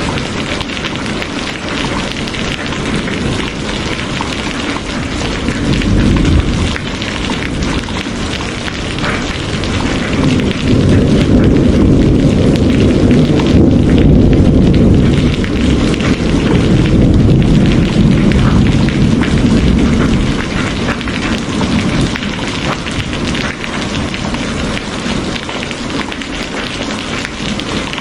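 Steady heavy rain hissing, with a long low rumble of rolling thunder that swells from about ten seconds in and fades after about twenty.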